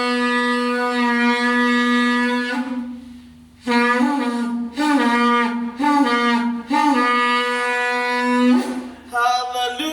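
A shofar (ram's horn) being blown: one long held blast that ends about two and a half seconds in, then after a short pause three shorter blasts about a second each, each with a little rise in pitch at its start, then another long blast that stops about a second before the end.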